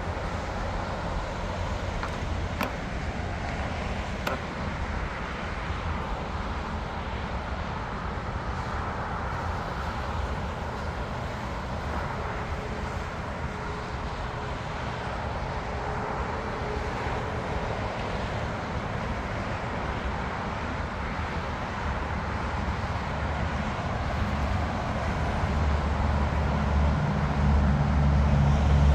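Steady airport background rumble of distant jet engines and traffic, swelling to a louder, deeper rumble over the last few seconds as an aircraft draws nearer.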